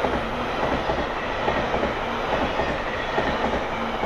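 JR East E721-series electric train passing through a station without stopping, its wheels clattering in rapid clicks over the rail joints. The noise falls away at the very end as the last car clears.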